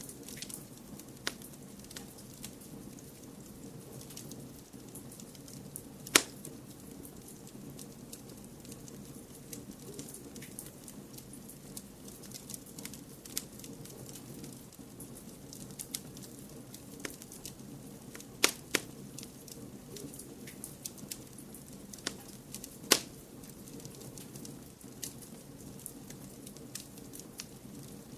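Wood fire in a fireplace crackling, with scattered sharp pops over a steady low rumble and hiss; the loudest pops come about six seconds in, at about eighteen seconds, and at about twenty-three seconds.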